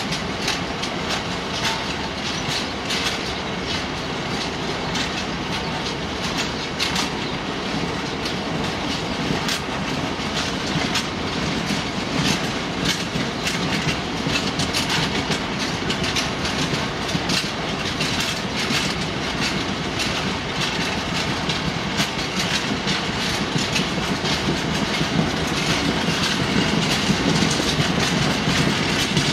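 A freight train of bulk cement tank wagons rolling past close by. A steady rumble of steel wheels on rail is crossed by many sharp clicks as the wheels run over the track, and it grows a little louder near the end.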